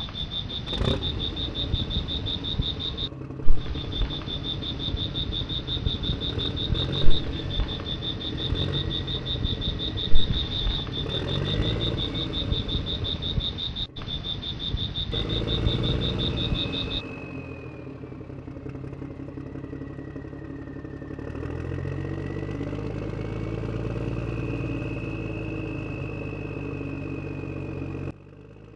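Small electric motors of miniature model construction vehicles whirring, their pitch rising and falling, with a few sharp knocks in the first ten seconds. A steady high-pitched trill runs through the first half and stops abruptly.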